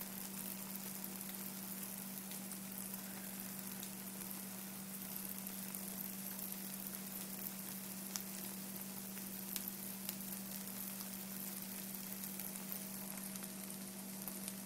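An omelet and a few shreds of cheese sizzling in a nonstick sauté pan, being cooked hard, with a steady low hum underneath and a couple of faint ticks.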